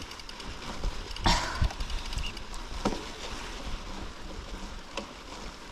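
Mountain bike rolling over a snowy trail: a steady rush of tyre and wind noise with a low rumble, and a few sharp knocks and rattles from the bike, about a second in, around three seconds and near the end.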